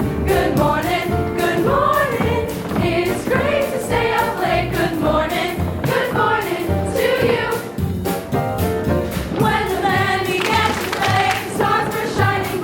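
A musical theatre ensemble singing together in chorus over musical accompaniment with a steady beat.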